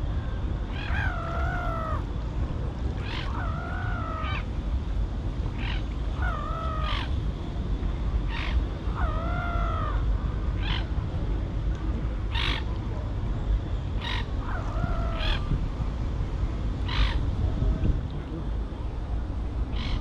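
Birds calling: about five drawn-out, arching calls a few seconds apart, mixed with many short, sharp calls, over a steady low background noise.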